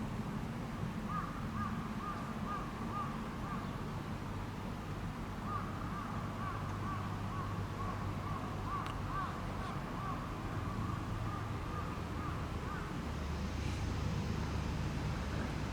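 A bird calling in long runs of short, quickly repeated notes, over a steady low rumble that grows louder near the end.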